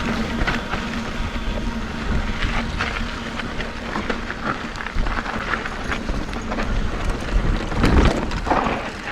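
Mountain bike rolling over a rough dirt trail: tyres crunching on loose ground and the bike rattling in irregular sharp clicks, with wind rumbling on the microphone.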